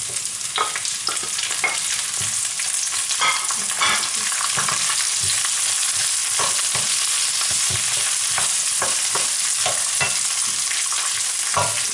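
Sliced green Italian peppers sizzling in hot olive oil in an enamelled steel pan as they are tipped in and stirred. A wooden spoon scrapes and knocks against the pan many times over a steady frying hiss that gets a little louder a few seconds in.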